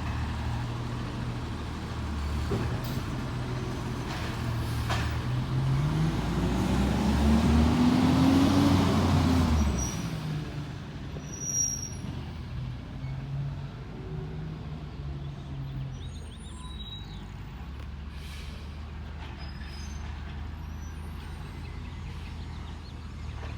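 Garbage truck's diesel engine revving up steadily for several seconds, then dropping back to idle. A short high squeal comes about halfway through, and then the engine idles steadily.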